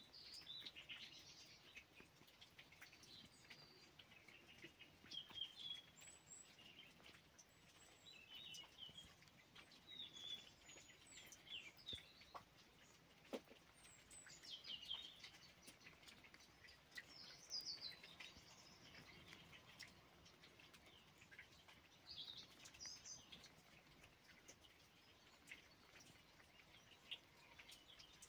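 Faint chirps and short calls of small birds, scattered through the whole stretch every second or two, with a few faint ticks.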